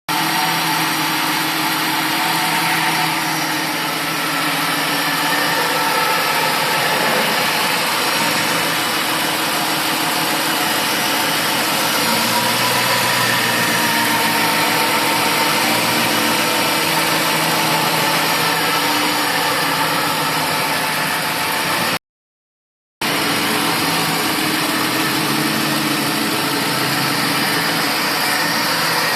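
An engine running steadily, with the sound dropping out completely for about a second near the end.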